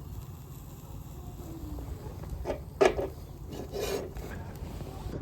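Oyster shells scraping and knocking against the grate of a shichirin charcoal grill as they are set in place. There is a sharp knock a little under three seconds in and a longer scrape about a second later.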